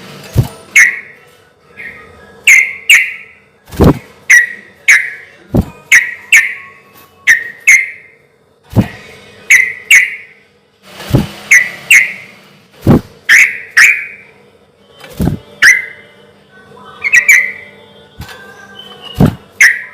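Yellow-vented bulbul (trucuk) singing loudly: short, bubbly whistled notes, mostly in quick pairs, repeating in a relaxed rhythm about once a second.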